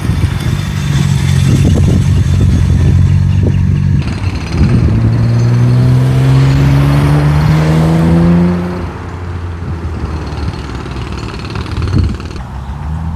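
Nissan Skyline GT-R R34's twin-turbo inline-six running through a Midori Seibi titanium exhaust: steady at first, then accelerating with a rising note for about four seconds. It drops off suddenly and then starts rising again near the end.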